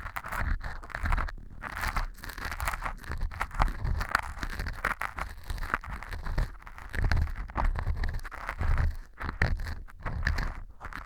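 Earpick scraping and crunching at pieces of fu (dry baked wheat gluten) glued on hard like earwax, in irregular scratchy strokes with soft low thumps underneath.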